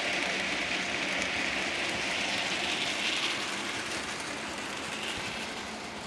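A model train running along the layout's track: a steady whirring hiss from the motor and wheels, with faint ticks, slowly fading toward the end.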